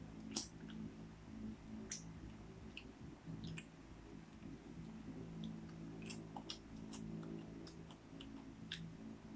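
Popcorn being chewed, with scattered faint crunches and clicks several times, over a steady low hum.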